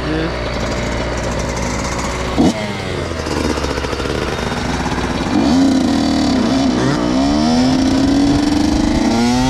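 Dirt bike engine revving, its pitch repeatedly rising and falling, with quicker climbs near the end; a single sharp knock about two and a half seconds in.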